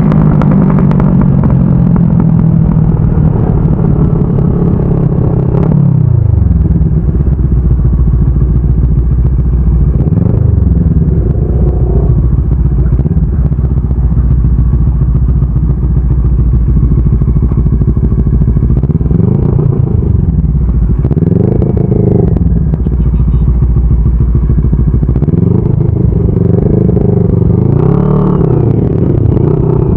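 CFMOTO 400NK motorcycle's parallel-twin engine under way, its pitch falling about six seconds in and then rising and dropping several times with the throttle.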